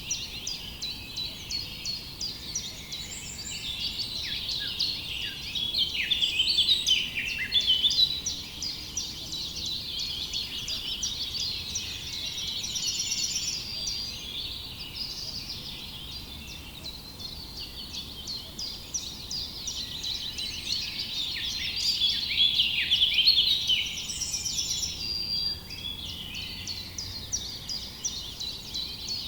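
Chorus of many small songbirds chirping and twittering continuously in rapid, overlapping calls, busier in swells a few seconds in and again near the end.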